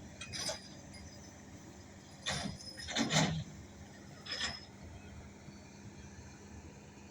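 Truck crane's engine running steadily, with four sharp metallic clanks from the lifting gear, the loudest about three seconds in.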